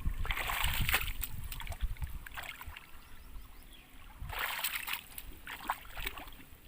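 Shallow muddy water in a flooded paddy-field pit splashing and sloshing in a few short bursts, over a low rumble.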